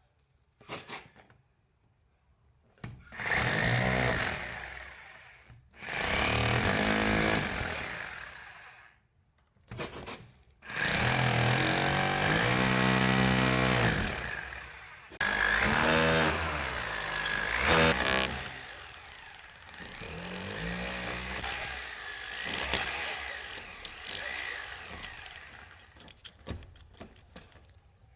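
Power drill drilling holes, run in about six bursts with short pauses between them, the motor's pitch rising and falling as it speeds up and bogs down.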